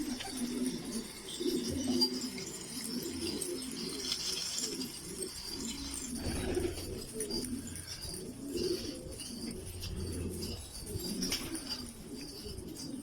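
Domestic pigeons cooing, several calls overlapping continuously.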